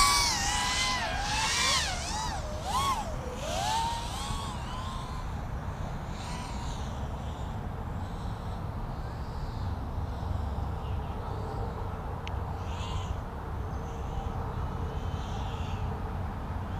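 FPV racing quadcopter (LitisRC Cicada 180 on three-bladed DAL T4045 props) whining, its motor pitch swooping up and down with the throttle for the first few seconds. It then grows faint as the quad flies off into the distance.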